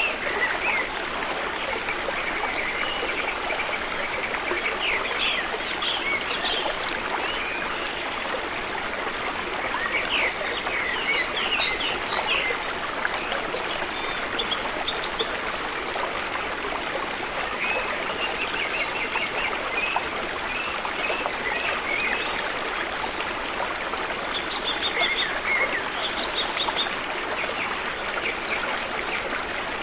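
A river or stream flowing steadily, a constant rush of water, with small birds chirping and trilling over it every few seconds.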